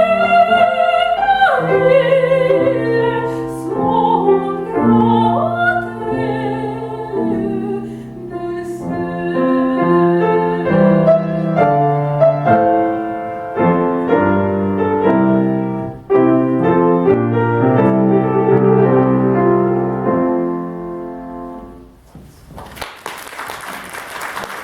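A female classical singer sings in operatic style with vibrato over grand piano accompaniment. The song closes with sustained piano chords that fade out, and applause breaks out near the end.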